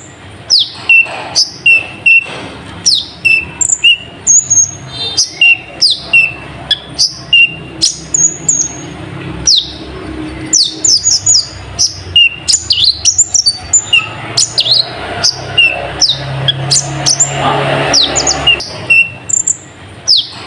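Kolibri ninja (konin, Van Hasselt's sunbird) singing a rapid string of sharp, high chirps, many of them quick downward sweeps, alternating with short lower notes several times a second. Its song is described as filled with learned nightjar (cabak iblis) calls.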